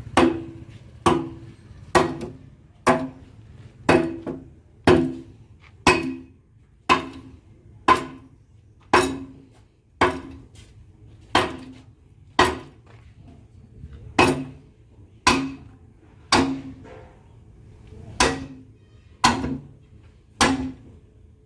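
Hammer striking metal in a steady rhythm, about one blow a second, each blow ringing briefly.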